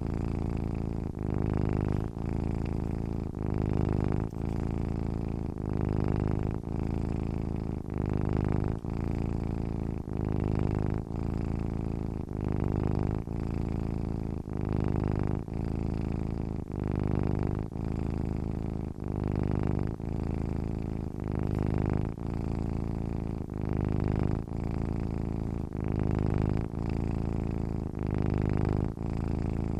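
A sleeping domestic cat purring steadily, the low, buzzy purr swelling and breaking with each in-and-out breath, about one breath cycle every two seconds.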